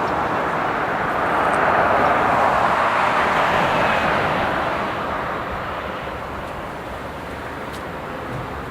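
Road traffic: a passing vehicle whose hiss swells about two seconds in and then fades away.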